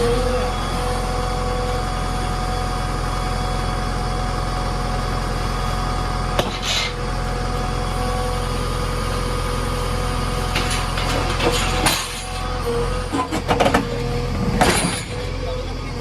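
Heavy diesel vehicle engine running steadily, with clanks and rattles about six and a half seconds in and a burst of several more near the end.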